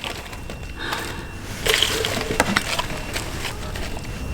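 Handling noise of food being put into a cast-iron pot: a rustle and a few light knocks and clicks about two seconds in.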